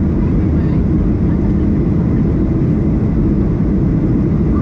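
Steady, loud engine and airflow noise heard inside the cabin of a Ryanair Boeing 737 airliner in flight, deep and even with no change.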